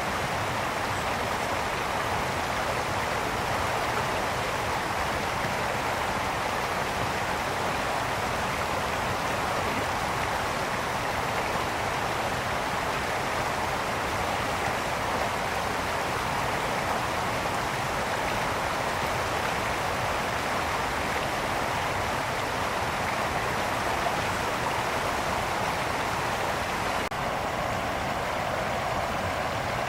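Mountain brook flowing, a steady rushing babble of water over stones.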